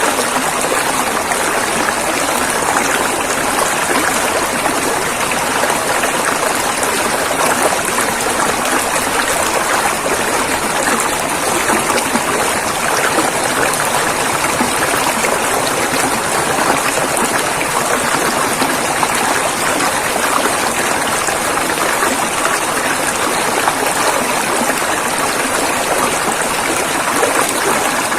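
River water rushing and splashing over rocks in a steady, unbroken stream.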